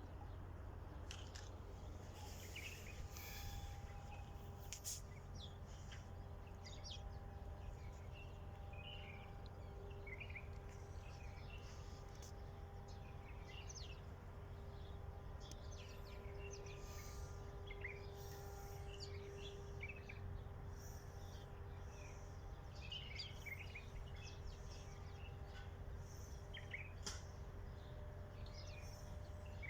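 Many small birds chirping in short scattered calls, over a steady low hum and faint steady tones.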